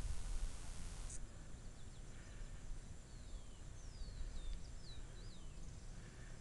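Birds calling: a handful of short whistles, each sliding downward in pitch, about three to five seconds in, over a steady low rumble and a brief hiss in the first second.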